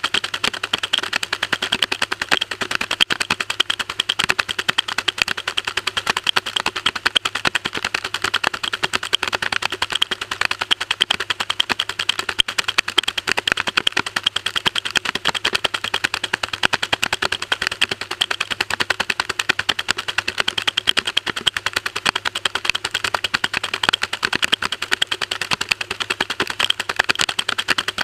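Maytag washing machine running mid-cycle, heard from inside the tub: a continuous, dense rapid clattering and rattling, with a faint steady hum underneath.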